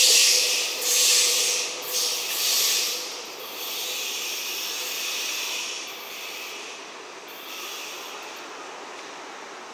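Freight train's container flatcars rolling past on the rails: a loud hiss of wheels on track that surges about once a second as the last wagons go by, then fades to a fainter, steady rumble a few seconds in as the train draws away.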